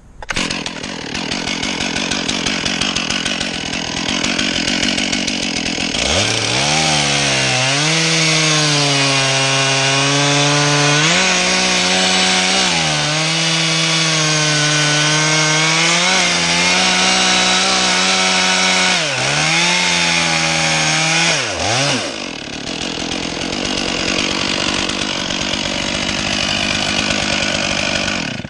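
Two-stroke chainsaw cutting through maple. The engine revs up about six seconds in and its note sags several times as the chain loads up in the cut, then drops back a little after twenty seconds and keeps running until it cuts off suddenly at the end.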